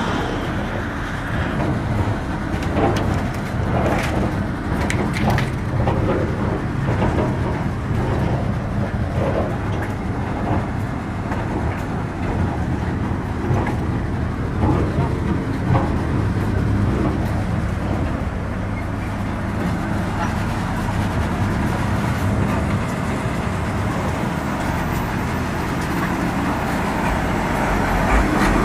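A motor vehicle running along railway track: a steady engine and rolling noise, with a run of sharp knocks in the first several seconds.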